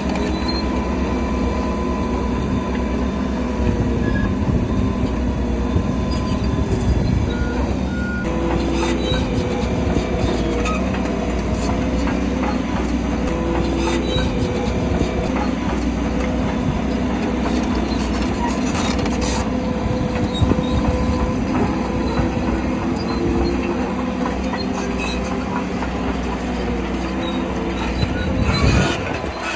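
Shantui crawler bulldozer working: its diesel engine running under load, with the steel tracks clanking and squealing.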